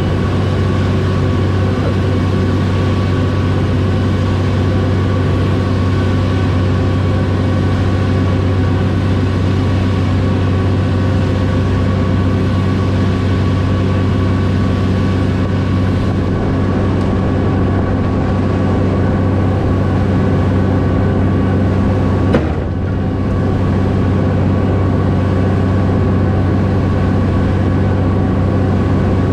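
Concrete mixer truck's diesel engine running steadily, with a single sharp click about two-thirds of the way through.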